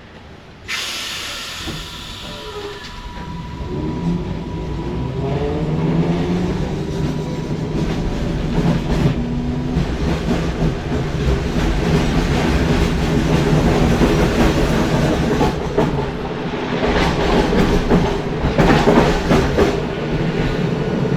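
Vintage W-class tram pulling away from a stop: a sharp hiss of air about a second in, then the traction motors whine, rising in pitch as it gathers speed, over the rumble and clatter of the wheels on the rails.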